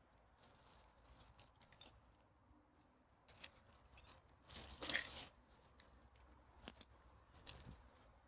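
Rustling and crackling of litter and dry forest debris being handled. There is a louder crinkly rustle about halfway through and two sharp snaps a little later.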